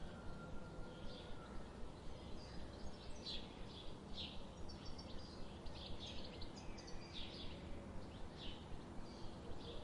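Small birds chirping in short, scattered high calls over a steady low outdoor background that pulses about three times a second.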